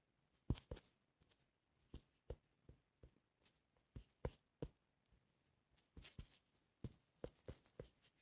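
Faint, irregular clicks and taps, about two a second, with a brief rustle about six seconds in.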